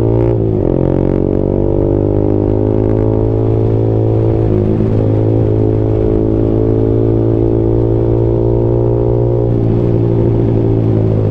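Yamaha sport motorcycle's engine pulling under throttle, its pitch slowly rising as the bike speeds up, with a gear change from second to third about halfway through and a slight easing near the end.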